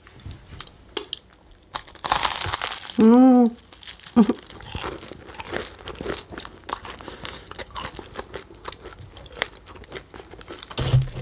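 Close-miked eating of a crisp store-bought pastry: a loud crackle about two seconds in, then crunchy chewing with many small crackles. A short hum is heard just after the crackle.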